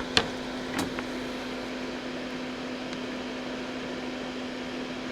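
Steady mechanical hum of a fan-like machine with a constant low tone. A sharp click sounds just after the start and a fainter one about a second in.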